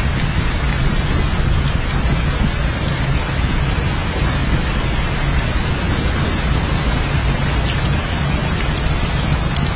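Steady heavy rain falling, an even hiss over a constant low rumble, with scattered sharp drop ticks on top.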